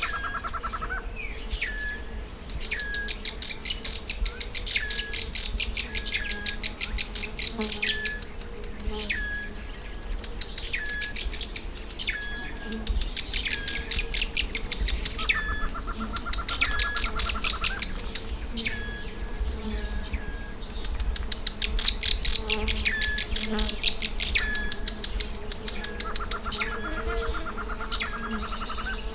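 Wild birds singing in Tumbesian dry forest: a song phrase repeated about every two seconds, a sharp note dropping onto a short low note and then a fast dry trill. A lower buzzy trill comes in three times.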